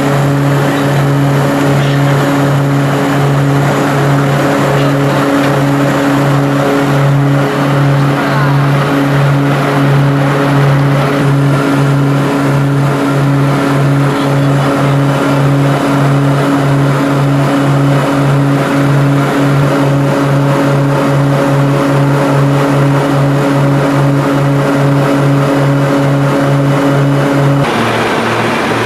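Propeller aircraft engine drone heard inside a small plane's cabin in flight: a loud, steady hum with an even, rhythmic pulsing. Near the end the engine note drops to a lower pitch.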